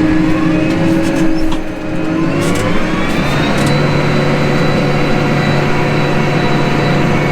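Farm tractor's diesel engine running steadily while working a field; about two seconds in, its engine speed rises and then holds at the higher pitch.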